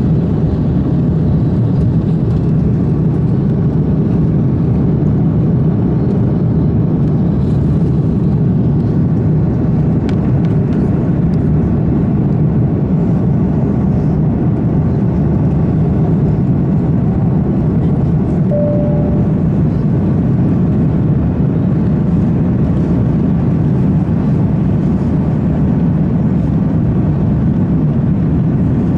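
Steady cabin noise of an Airbus A330-300 airliner in flight: the engines and the rush of air heard from inside the passenger cabin, even and unbroken. A brief single tone sounds about two-thirds of the way through.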